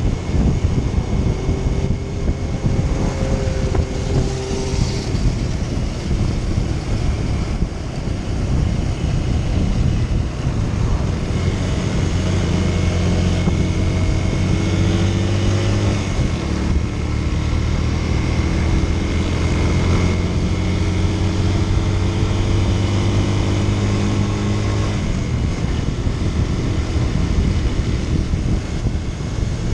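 Motorcycle engine running on the road with wind rushing over the microphone; from about twelve seconds in, the engine note rises several times as the bike accelerates.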